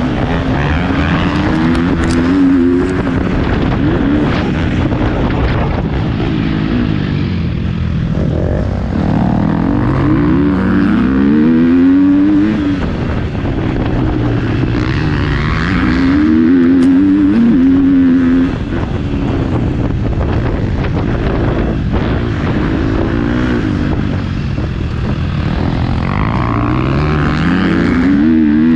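Motocross bike engine heard close up, revving hard and rising in pitch, then dropping back, again and again as the rider accelerates and shifts through the gears.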